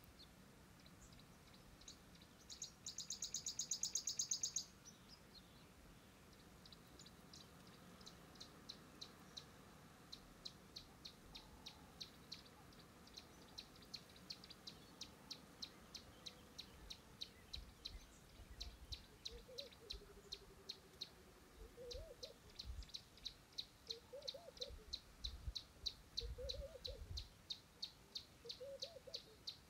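Faint bush birdsong: a sharp high note repeated about twice a second, and in the second half a lower rising-and-falling call every second and a half or so. A brief loud high buzz comes a few seconds in.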